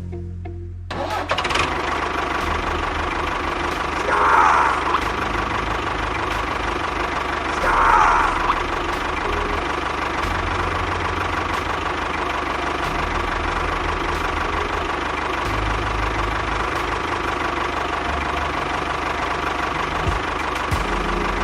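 Small engine starting about a second in, then running steadily with a pulsing low rumble. Two brief louder surges come around four and eight seconds in.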